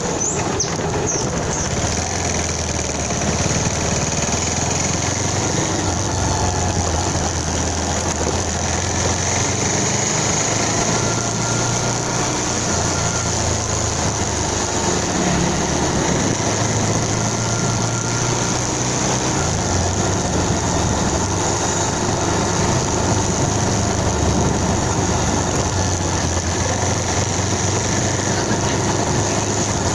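Motorcycle engine running during a ride, its low hum shifting in pitch a few times, under steady wind and road noise.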